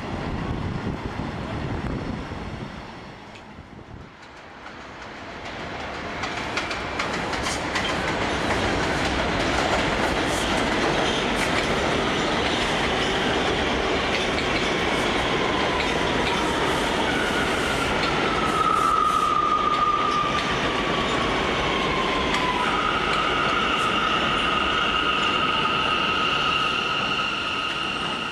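NYC subway R179 train on the J line running on the tracks, its noise building after a brief lull, with wheels clicking over rail joints. About two-thirds of the way in a falling whine sounds, then a steady high-pitched wheel squeal holds to the end.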